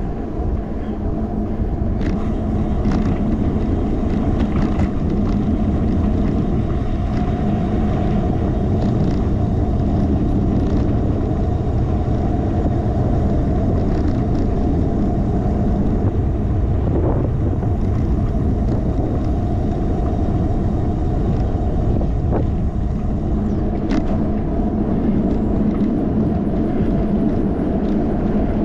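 Road and wind noise of a bicycle in motion, picked up by a handlebar-mounted action camera: a steady low rumble from tyres and wind on the microphone, with a constant hum and a few light knocks and rattles from bumps.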